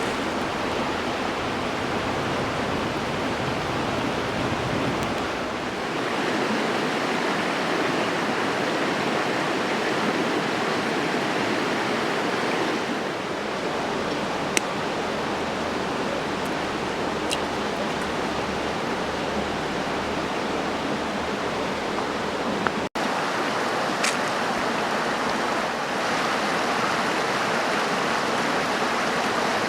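Campfire burning with a steady rushing hiss and a few sharp crackles and pops, with a brief break a little over halfway through.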